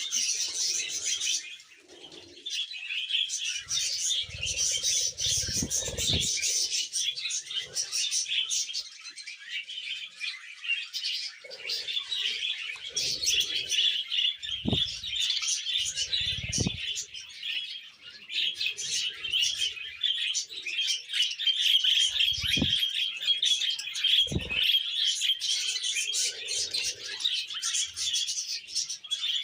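Budgerigar chattering, a continuous run of chirps and warbles, with a few brief low thumps scattered through it.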